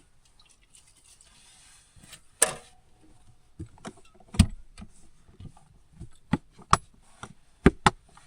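A portable butane heater being handled and set up: a run of plastic and metal clicks, clacks and knocks, the loudest a sharp clack about two and a half seconds in and a couple of quick knocks near the end.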